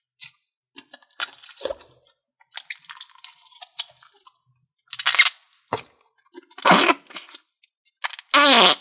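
Pink noise putty being squeezed and pressed with the hands, giving irregular wet squishing and crackling noises. Near the end comes a louder squelch whose pitch falls.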